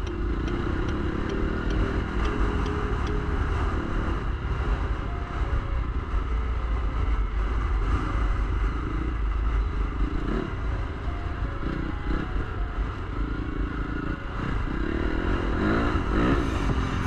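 Dirt bike engine running and revving on a trail, with low wind rumble on the microphone.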